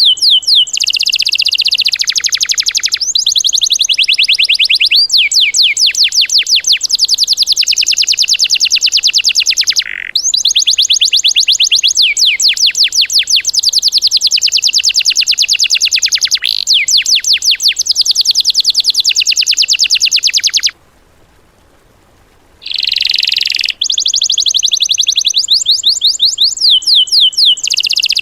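A songbird singing long, fast trills of high repeated notes in bouts, the rapid-fire 'tembakan' type of song. It breaks off for about two seconds about three-quarters of the way through, then resumes.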